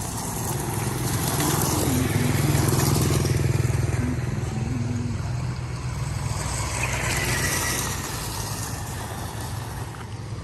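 A vehicle motor running steadily with a low hum. It grows louder between about one and four seconds in, then eases off.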